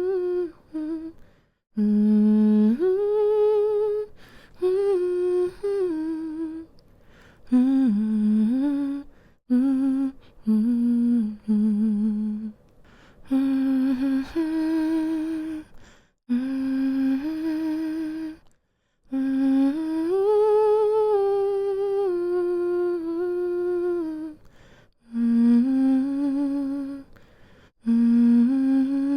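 A woman humming a slow, soothing lullaby to put a baby to sleep, in short phrases of gliding and held notes broken by brief pauses for breath.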